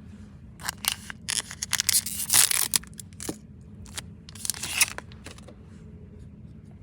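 Foil booster pack of trading cards being torn open: a run of crackling rips lasting about four seconds, loudest in the middle.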